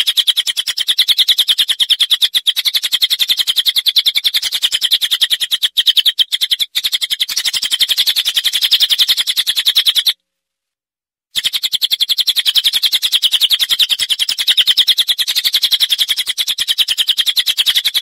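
Songbird chirping in a rapid, very even train of short high chirps, many a second, of the kind played as a master track to train cage songbirds. It drops out briefly twice before the middle and stops completely for about a second about ten seconds in, then carries on.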